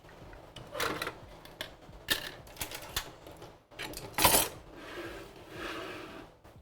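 Kitchen things being put away and set down: an irregular string of clacks and knocks, the loudest about four seconds in.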